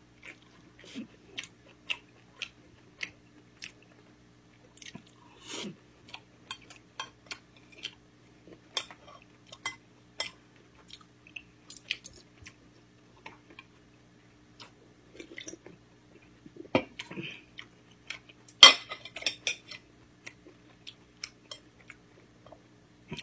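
Close-miked chewing and biting while eating gamjatang, Korean pork-bone soup, with scattered sharp clicks of utensils against the dish. There is a louder, denser burst of eating noise about three quarters of the way through.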